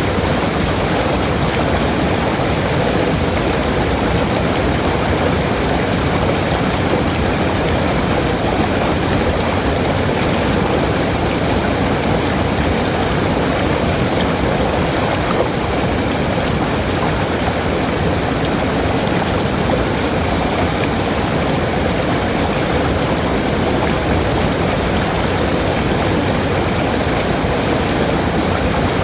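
Waterfall: a steady, loud rush of falling water, deepest in the low and middle range, with no change throughout.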